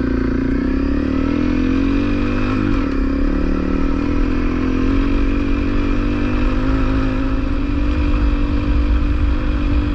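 Honda CRF250L's single-cylinder four-stroke engine running under way, heard from the bike. The engine note rises over the first couple of seconds, drops at a gear change about three seconds in, then climbs slowly again as the bike pulls away.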